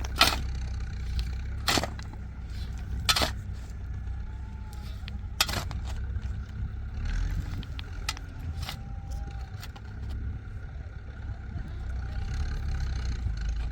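Tractor engine running steadily with a low rumble, broken by several loud, sharp knocks in the first six seconds and a few fainter ones later.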